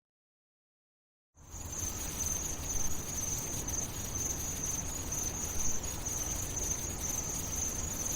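Silence, then about a second and a half in, a steady high-pitched insect trill like a cricket chorus starts suddenly over a low rumble.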